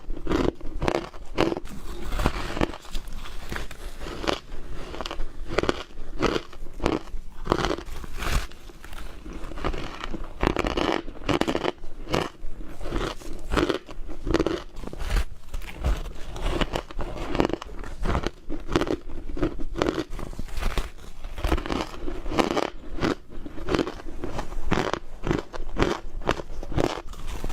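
Ice being bitten and chewed close to the microphone: a continuous run of loud, irregular crunches.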